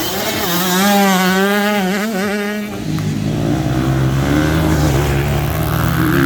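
Motocross bikes racing: one engine revs high with its pitch wavering as the throttle works for about the first three seconds, then lower-pitched engines of other bikes take over.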